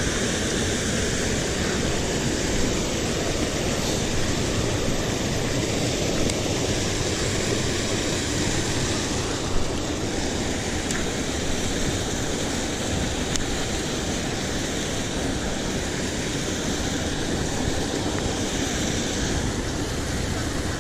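Water rushing steadily over a small spillway.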